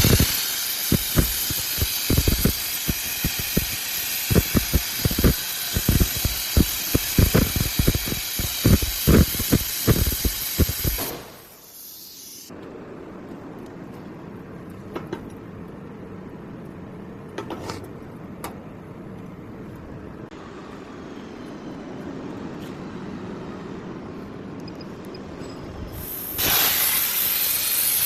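CNC plasma cutter cutting steel: a loud, steady hiss of the plasma arc and air jet, with irregular crackling through it. The arc cuts off about 11 s in, leaving a quieter steady background, and the loud hiss starts again near the end.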